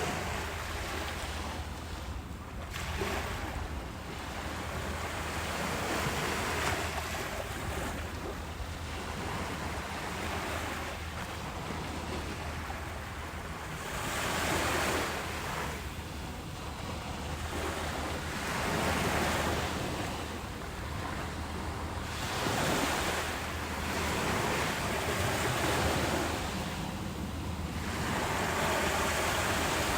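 Ocean waves breaking and washing on a beach, a swell of surf every few seconds over a steady hiss, with wind rumbling on the microphone.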